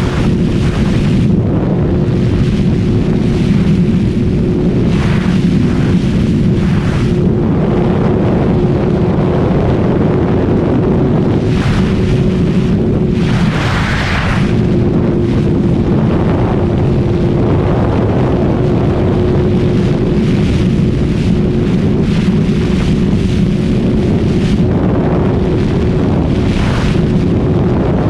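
Kawasaki ZX-636R's inline-four engine running at a steady high rpm while riding, under heavy wind rush on the microphone. The engine note breaks off briefly about halfway through, then settles back to the same steady pitch.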